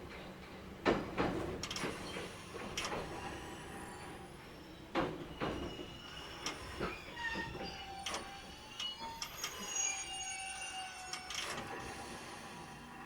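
JR Kyushu 811 series electric train rolling slowly, with scattered clunks from rail joints and points and thin high squeals, typical of a train braking into a station. The squeals come mostly in the second half.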